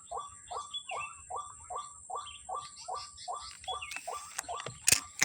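White-breasted waterhen (ruak-ruak) calls repeated in a steady run, about two and a half short downward-curving notes a second. A couple of sharp cracks come near the end.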